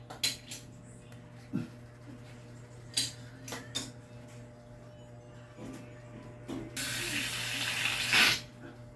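A few light knocks and clicks, then water rushing or pouring for about a second and a half, stopping abruptly.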